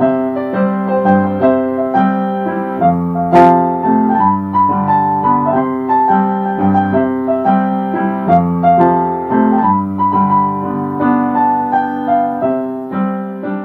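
Keyboard music, a piano-like melody over chords, fading out at the end.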